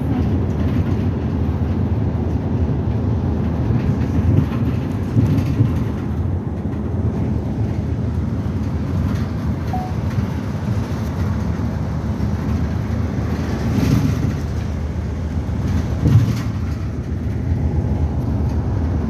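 Interior running sound of a city bus under way: steady engine and road rumble, with a few short knocks and rattles as it goes over the road.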